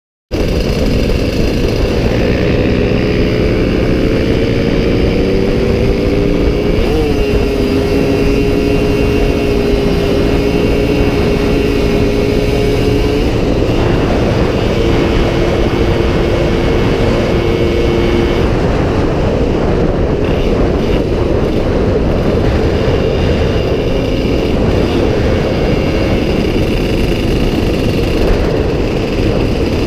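Motorcycle engines running at steady high revs with a loud rush of wind or road noise. The engine notes hold steady, shifting in small steps near 7 and 13 seconds in and again near 18 seconds.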